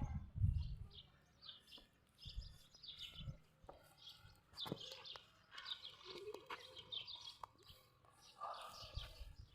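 Small birds chirping faintly in short, scattered calls, with a few sharp clicks in between.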